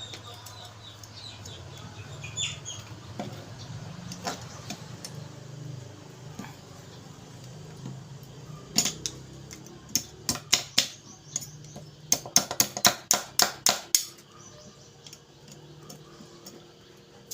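Sharp small clicks of hard parts being handled and snapped together while a replacement ceramic igniter head is fitted into a gas stove's ignition assembly. A lone click comes first, then a quick, irregular run of about fifteen clicks over a few seconds.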